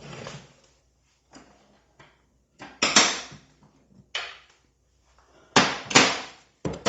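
Rummaging among hand tools and a toolbox drawer: a string of short sliding and clattering noises, the loudest about three and six seconds in.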